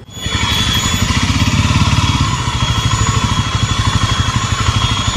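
Yezdi motorcycle's single-cylinder engine running, with a steady, sharp high-pitched whine over the engine beat that the owner puts down to the fuel pump.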